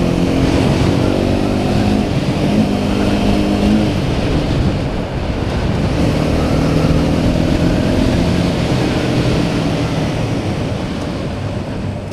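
Honda CBR300R's single-cylinder engine running under way, its note climbing, holding and dropping several times as the bike speeds up and changes gear, with a rush of wind noise.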